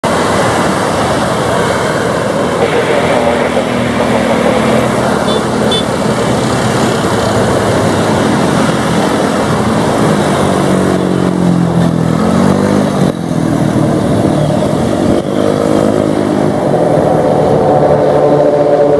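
Beech G36 Bonanza single-engine propeller aircraft flying low passes. Their engine drone bends down in pitch as they go by, most clearly between about ten and thirteen seconds in, over a steady loud rushing noise.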